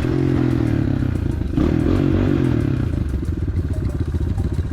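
Enduro motorcycle engine running while riding a forest trail, with clatter from the bike over rough ground. The revs change about a second and a half in, and the engine then runs on at lower revs with even firing pulses.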